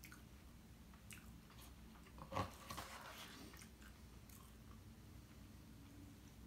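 Faint close-up chewing of a fried pastry with maitake mushroom filling, with a few soft clicks and crackles of the crust. A single short, louder mouth sound comes about two and a half seconds in.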